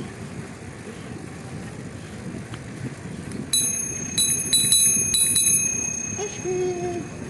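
Bicycle bell rung in a quick run of about six dings starting about halfway in, each ring held over the next, over steady riding noise.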